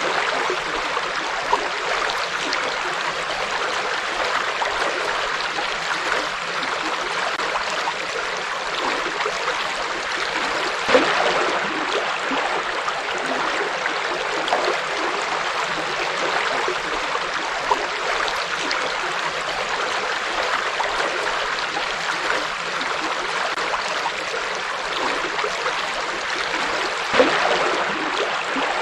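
A forest river flowing steadily, a constant rushing and gurgling of water with small splashes, and a couple of slightly louder splashes about 11 and 27 seconds in.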